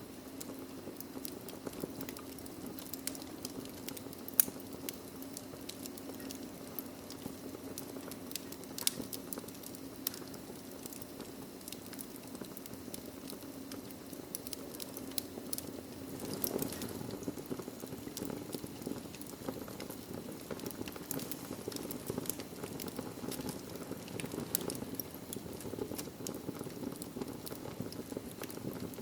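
Wood fire crackling in a fireplace: scattered sharp pops and snaps, one louder about four seconds in, over a steady low noise from the burning fire.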